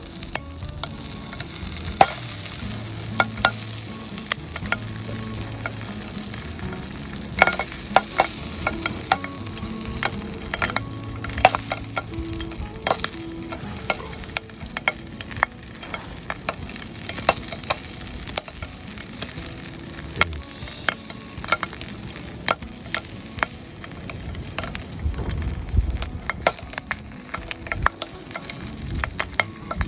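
Block bacon frying in a pan: a steady sizzle with frequent sharp pops and crackles of spitting fat.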